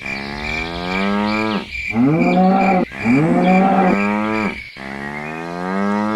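Cow mooing: four long moos one after another, each sliding down in pitch.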